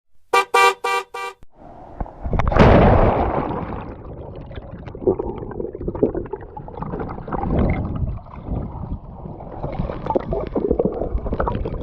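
Four short horn toots in quick succession, followed about two and a half seconds in by a loud rushing noise that settles into a steady rumbling, clattering din.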